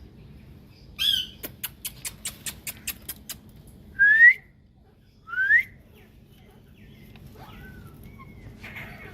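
Ringneck parrots calling: a short squawk, then a quick run of about ten sharp clicking chirps, then two loud rising whistles a second and a half apart. Fainter gliding whistles follow near the end.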